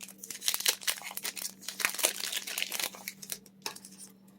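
Foil Pokémon card booster pack wrapper being crinkled and torn open by hand: a dense run of sharp crackles that thins out near the end.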